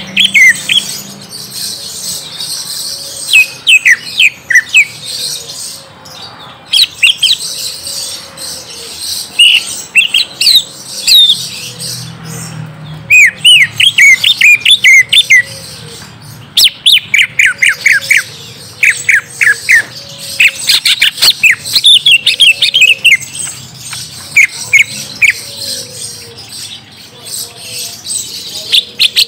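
Green leafbird (cucak ijo) singing in loud bursts of quick, sharp notes that slide downward, several notes to a burst, with a new burst every second or two.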